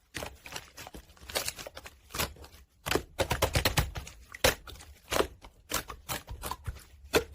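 Slime being squeezed and poked by hand, making an irregular run of sticky clicks and small pops.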